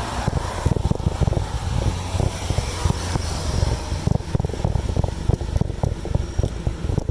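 Wind buffeting the microphone of a moving bicycle rider: a loud, uneven low rumble with many quick irregular gusts and thumps.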